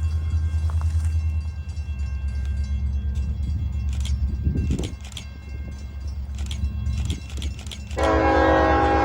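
EMD SD40 diesel locomotive rumbling past, with sharp clicks from the wheels over the rails. About a second before the end, its Nathan K5LLA five-chime horn starts blowing a steady chord.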